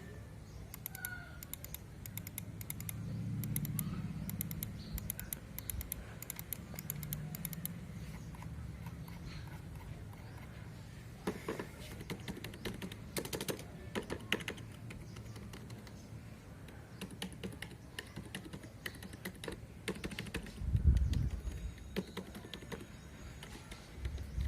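Keys of a Logitech MK220 membrane keyboard being typed in quick flurries of soft clicks, with a few low thumps about three-quarters of the way through.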